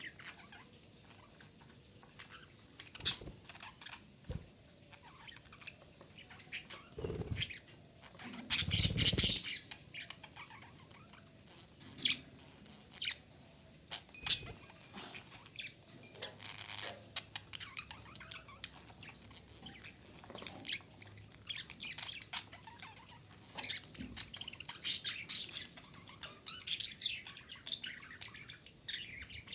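Budgerigar chirping and chattering in quick, scattered chirps. A sharp click comes about three seconds in, and a brief louder rustle comes around nine seconds.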